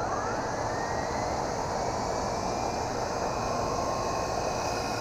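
Small electric RC toy helicopter's motor and rotor whirring steadily while it climbs, with a whine that rises in pitch in the first second as it is throttled up.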